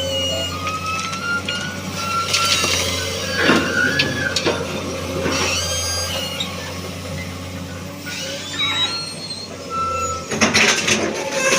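Hydraulic excavator at work: its diesel engine runs steadily under high-pitched hydraulic whines and squeals that rise and fall as the machine moves, with a burst of knocks near the end.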